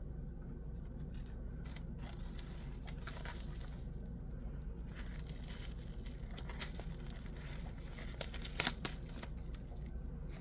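Small plastic parts bags crinkling and rustling as they are handled and pulled out, in irregular short crackles. The loudest rustle comes near the end.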